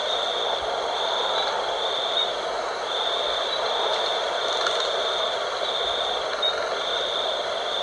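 Night wind blowing steadily, with a high trill repeating in phrases under a second long.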